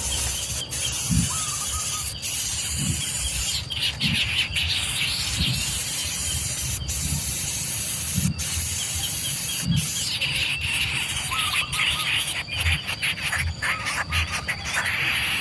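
Baby birds giving shrill, hissing begging squeals that come in bouts, over a steady high insect drone, with scattered clicks and low thumps.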